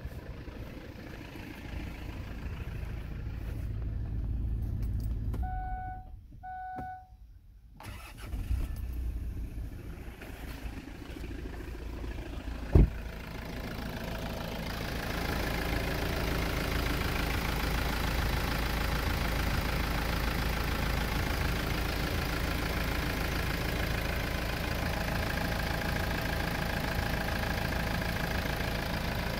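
Two short beeps, then a single sharp knock, after which a Kia Sorento's 2.5 CRDI D4CB four-cylinder common-rail diesel runs at a steady idle.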